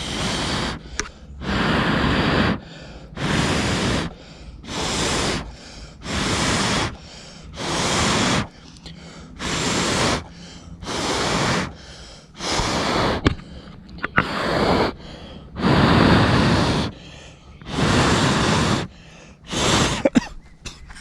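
A person blowing hard onto smouldering tinder in long, even puffs, about one every second and a half, to get the embers to catch in a fire of wet wood.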